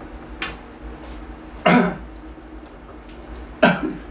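A man coughing twice, two short harsh coughs about two seconds apart, with a faint throat-clearing sound before them.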